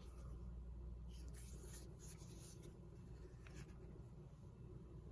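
Faint rustling of paper book pages being handled, a few short rustles over a low steady hum.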